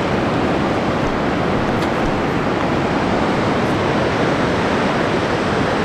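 Steady rushing noise of wind and ocean surf, even and unbroken throughout.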